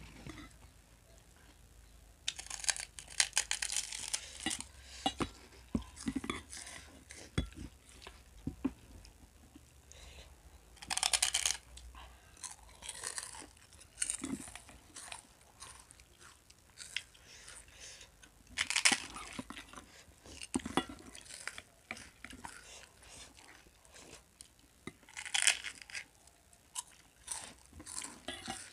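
Close crunching and chewing of crisp fried snacks, puffed gol finger sticks among them: bursts of fast crackling every several seconds, with quieter chewing between.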